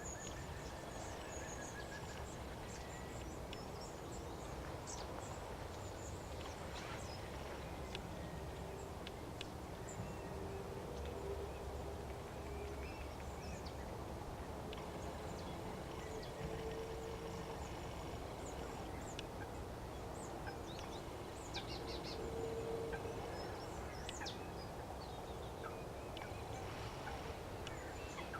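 Birds calling over a steady background hiss: many short high chirps, and a few longer low calls about a third, halfway and three quarters of the way through.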